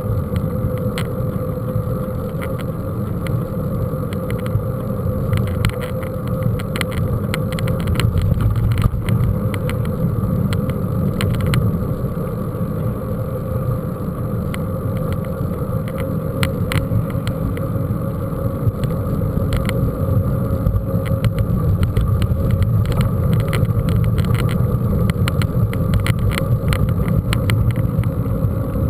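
Mountain bike ride over rough ground: a steady rumble with many short rattles and clicks.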